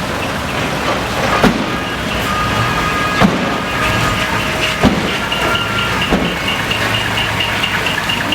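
A heavy truck's engine running steadily, with a few sharp knocks and, from about halfway through, a rapid, evenly repeating high beep.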